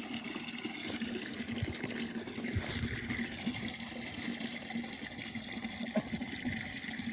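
Water running steadily, with a few faint knocks.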